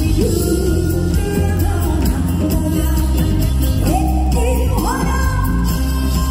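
A singer holding long notes that slide up and down in pitch, over a steady bass and band accompaniment.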